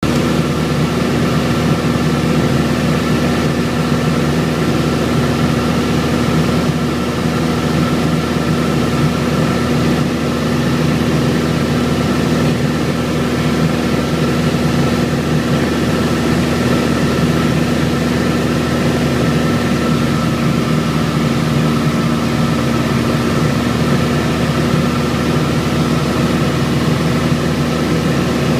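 Light propeller airplane's engine and propeller droning steadily in level cruise flight, with one strong unchanging tone.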